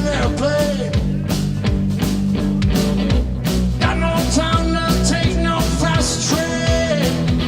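Live blues-rock band playing electric guitars, bass guitar and drums, with a steady drum beat and a held, bending lead melody on top.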